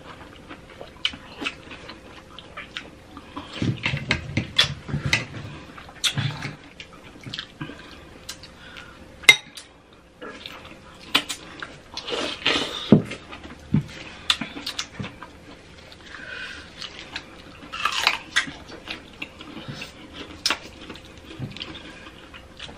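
Close-up eating sounds: people biting and chewing juicy fresh fruit such as pineapple and mango, with scattered sharp clicks of a spoon against a glass bowl.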